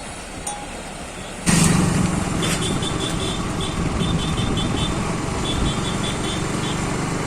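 A motor vehicle running steadily with a low hum, cutting in suddenly about a second and a half in. Short high chirps repeat over it.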